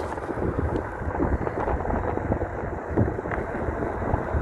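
Wind buffeting an outdoor microphone: a low, rumbling rush of noise that rises and falls unevenly without a break.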